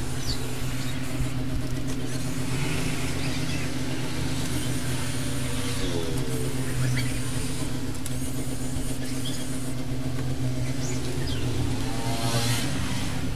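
A steady low machine hum, with a pitched sound that glides in pitch about six seconds in and again near the end.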